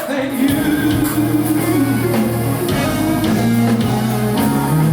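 Live band playing an instrumental passage: electric guitar and bass over a drum kit, with no singing.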